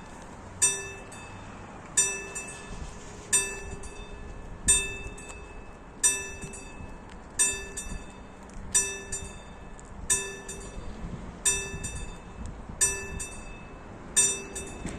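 Classic mechanical bell of a railway level-crossing signal striking once about every second and a third, each strike ringing out and dying away. It is the crossing's warning that a train is approaching.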